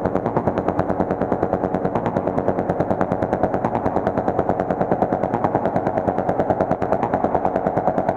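Behringer Wasp Deluxe synthesizer playing a rapid, even stream of short pitched notes, about a dozen a second.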